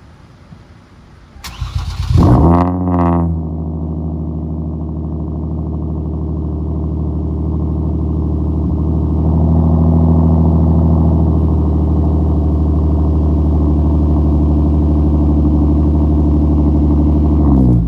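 Hyundai Genesis Coupe 3.8 V6, with a straight-through race exhaust and test pipes in place of the catalytic converters, starting up. The starter cranks briefly, the engine catches with a rev flare about two seconds in, then settles into a steady idle that rises slightly about nine seconds in, and it is switched off near the end.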